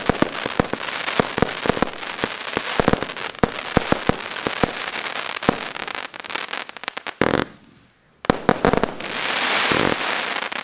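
Blue Night MC149 fireworks battery firing: a rapid run of sharp bangs over a continuous crackling hiss. The bangs break off into a second of near silence about seven and a half seconds in, then start up again.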